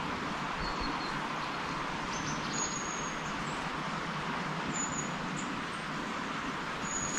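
A small bird calling four or five thin, high, whistled notes over a steady background hiss.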